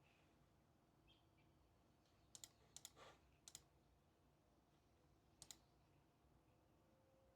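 Near silence with a few faint, sharp clicks in quick pairs, about two to three and a half seconds in and once more a little past five seconds, like small desk clicks from a pen, mouse or keys.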